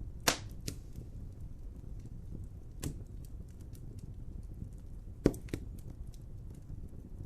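Wood fire crackling over a steady low rumble of flames, with two loud sharp pops, one just after the start and one about five seconds in, a few smaller snaps and many faint ticks.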